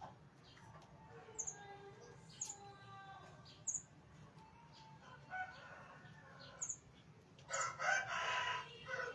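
Aviary birds calling: several short, sharp, high chirps and thin whistled notes, with a louder harsh call lasting about a second near the end.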